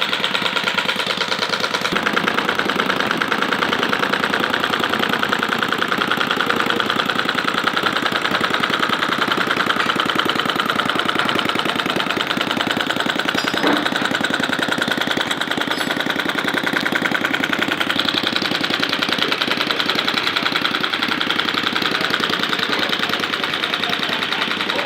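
Model Atkinson-cycle petrol engine running steadily, firing with a rapid, even beat. Its tone changes slightly about eighteen seconds in.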